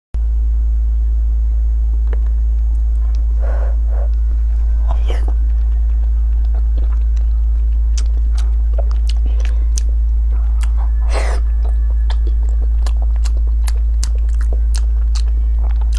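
Close-up chewing of soft braised pork belly, with many sharp wet clicks and a few longer smacking noises. A steady low hum runs underneath and is the loudest thing.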